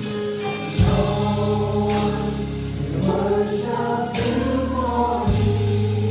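A gospel choir singing with a band, held sung notes over a steady bass line.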